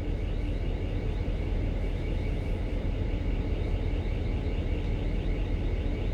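Steady low rumble of a ship's engine and machinery, with a faint fast chatter higher up.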